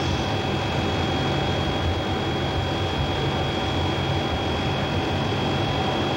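Steady cabin noise inside an E-3D Sentry AWACS in flight: a constant low drone with two thin steady whines above it.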